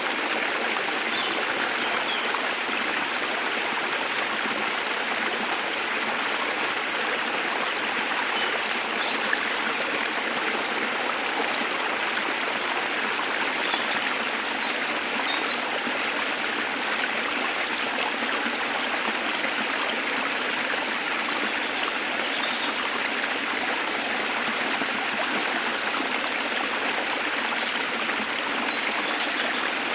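Steady rush of a small waterfall or stream, with a few faint, brief bird chirps scattered over it.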